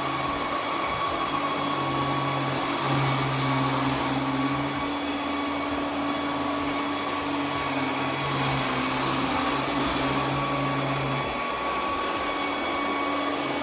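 Roborock Q10V+ robot vacuum running as it cleans: a steady motor whine over an airflow hiss, with a low hum that cuts in and out several times.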